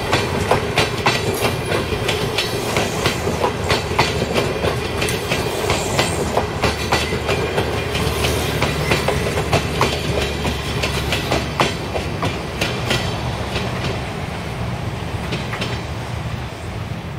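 Passenger train coaches rolling past close by: wheels clacking over the rail joints over a steady rumble, easing off toward the end as the last coach goes by.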